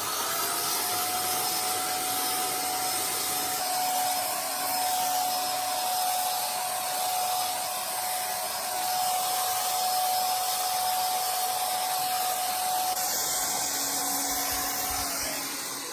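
A small electric motor running steadily with a strong rush of air and a single steady whine, winding down and stopping near the end.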